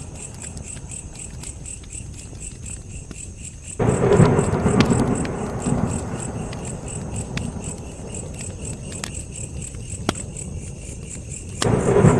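Campfire burning with scattered sharp crackles and pops, while crickets chirp in a steady, rapid high-pitched rhythm. A louder low rushing sound comes in abruptly about four seconds in, eases off, and returns suddenly near the end.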